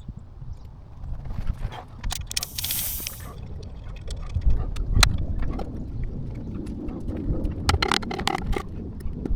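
Irregular knocks, clanks and scrapes of hand tools and car parts being handled, with a short hiss about two and a half seconds in and a quick cluster of clicks near the end.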